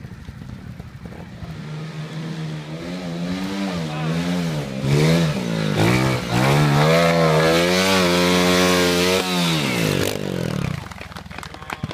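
Trial motorcycle engine revving under load on a steep dirt climb. Its pitch goes up and down with quick throttle blips, is then held high and loud for about three seconds, and drops away and stops near the end.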